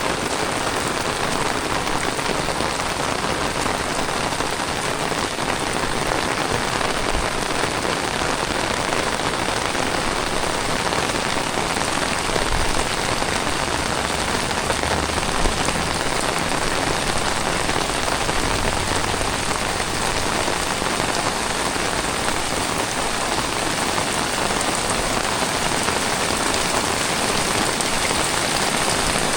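Heavy tropical rain falling steadily on surfaces, a dense even hiss. A few faint low thumps come between about 12 and 19 seconds in.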